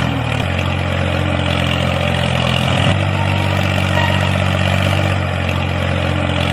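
Steady low engine-like drone of a small working model tractor, its pitch stepping slightly a few times, over a constant mechanical hiss.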